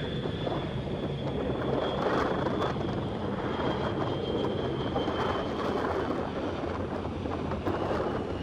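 Jet airliner engines running, a steady rumble with a faint high whine that drifts slightly lower in pitch.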